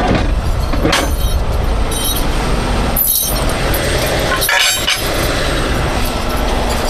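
Heavy tow truck's diesel engine running with a steady low rumble, with a few short hissing bursts about one, three and four and a half seconds in.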